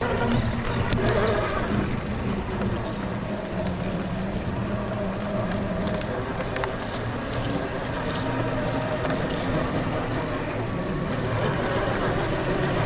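A steady motor hum, holding several fixed pitches, under a constant rushing noise; it starts abruptly.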